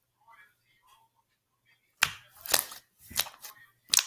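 Slime being squeezed and poked by hand, giving soft faint squishes and then four sharp clicking pops in the last two seconds.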